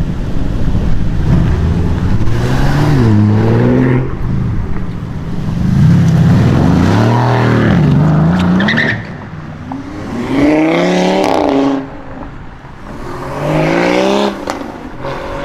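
Sports cars with aftermarket exhausts accelerating hard away one after another, about four in turn. Each engine note climbs with the revs and drops at the gear changes, with brief lulls between cars.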